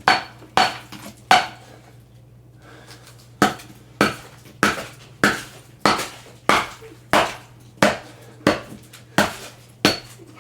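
Repeated hard strikes on a package being smashed open, each a sharp clanking hit. Three blows, a pause of about two seconds, then steady blows about one and a half a second.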